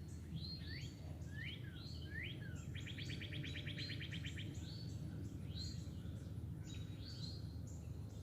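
Several songbirds chirping and singing, with swooping notes and a fast trill of quickly repeated notes about three seconds in, over a steady low rumble.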